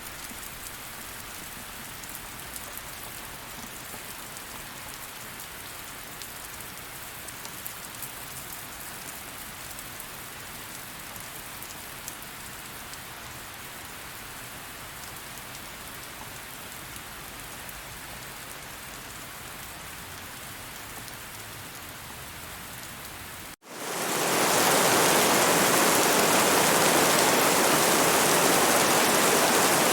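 Steady rain falling, an even hiss with scattered drop ticks. About 23 seconds in, it cuts out for an instant and a much louder, denser rush of heavy rain fades in and holds.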